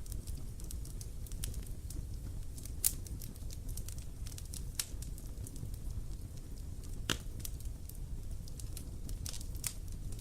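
Wood fire crackling, with irregular sharp pops and snaps, the loudest a little under three seconds in and about seven seconds in, over a steady low rumble of the burning fire.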